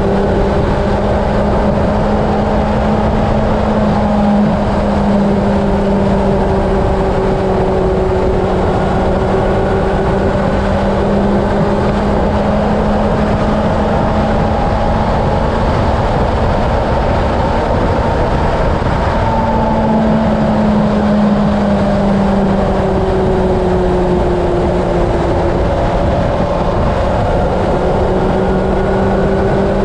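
Honda CB750's inline-four engine running steadily at highway cruising speed, its note drifting up and down slightly, under heavy wind rush on the helmet- or bike-mounted camera's microphone.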